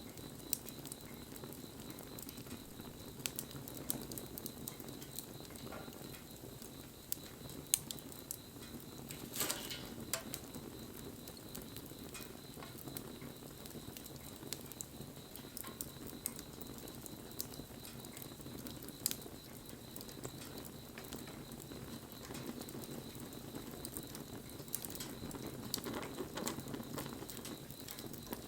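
Wood bonfire burning: a steady low rush of flame with irregular sharp crackles and pops, and one louder burst of crackling about nine and a half seconds in.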